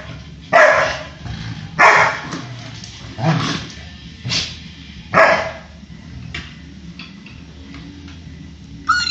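A pitbull barking at a handheld car vacuum cleaner: about six single barks, irregularly spaced, over the vacuum's steady low hum. A high whining yelp comes right at the end.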